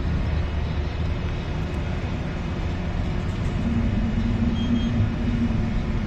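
Ship's engine and machinery rumbling steadily with a low hum, heard on board.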